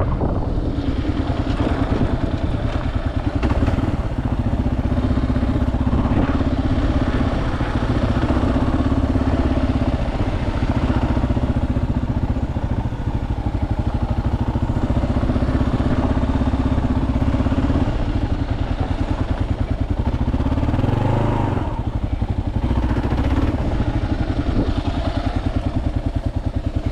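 Kawasaki KLR dual-sport motorcycle's single-cylinder engine running steadily while riding a dirt trail, with a brief dip and rise in engine pitch about three-quarters of the way through.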